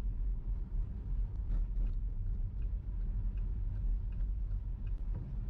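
Car driving, a steady low rumble of road and engine noise heard inside the cabin.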